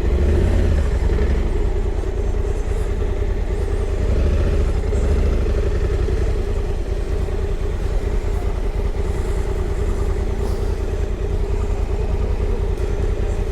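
Motorcycle engine running steadily at an even speed, with a constant low rumble and road and wind noise.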